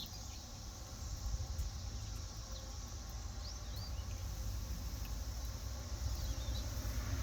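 Steady insect chorus, a high even hiss, with a few short bird chirps over it and a low rumble underneath that grows louder near the end.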